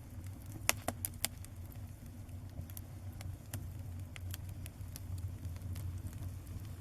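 Small fire crackling, with irregular sharp pops and clicks over a steady low hum.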